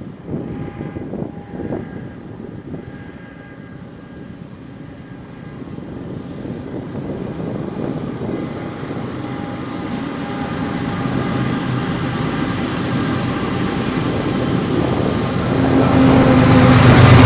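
An approaching CN freight train led by two diesel locomotives, its rumble growing steadily louder until the locomotives' engines are loud and close in the last second or so.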